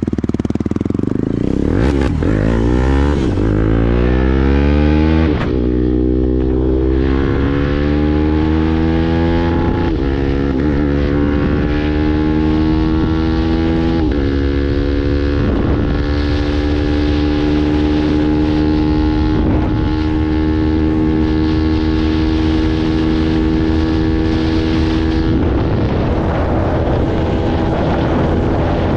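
KTM 250 Duke's single-cylinder engine accelerating hard through the gears. Its pitch climbs in each gear and drops back at every upshift, about five times in the first half. It then holds an almost steady high pitch near top speed.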